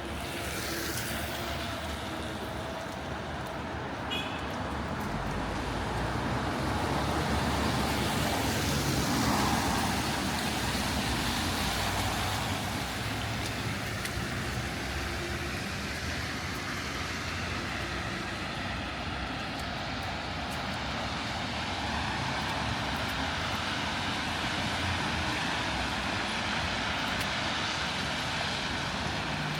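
Street traffic on a rain-wet road: a steady hiss of tyres and running engines, swelling as vehicles pass about seven to ten seconds in.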